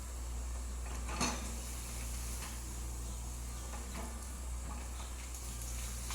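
Excavator's diesel engine running with a steady low drone, with scattered knocks and clanks over it and a sharper knock about a second in.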